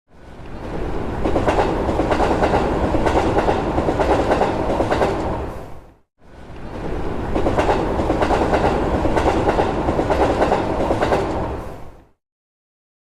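A train running along rails with a clickety-clack rhythm, played twice as two matching passages of about six seconds, each fading in and then fading out.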